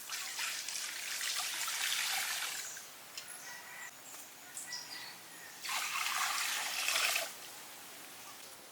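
Water trickling or being poured, in two spells: one at the start lasting about two and a half seconds, and a shorter one about six seconds in.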